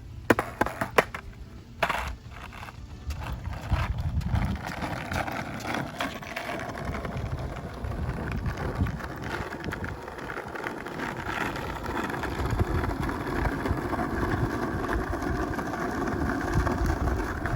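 Skateboard rolling on pavement: a few sharp knocks in the first two seconds, then a steady rumble of the wheels.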